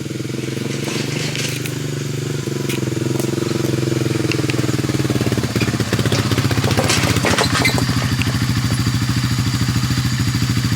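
ATV engine running steadily, growing louder about halfway through. It runs smoothly, its carburetor freshly cleaned and its diaphragm gasket reset.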